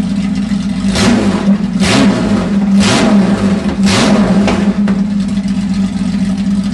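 Performance-built Jaguar 4.2 engine idling steadily, with four quick blips of the throttle about a second apart, each revving up and dropping straight back to idle.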